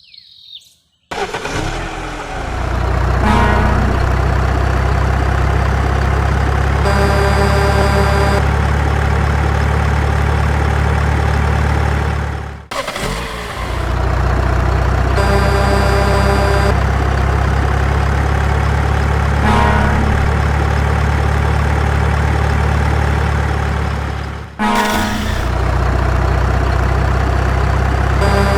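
Looped heavy-vehicle engine sound effect running steadily with a deep drone. It cuts out and restarts about every twelve seconds, with short horn-like tones recurring within each loop.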